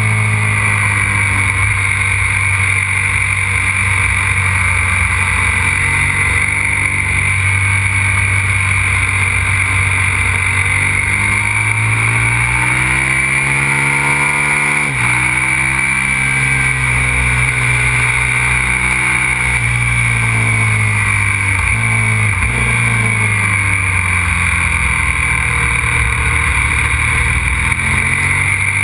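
Aprilia RXV 550 supermoto's V-twin engine at speed, its revs climbing and falling over and over, with a sudden drop in pitch about halfway through and another some seconds later.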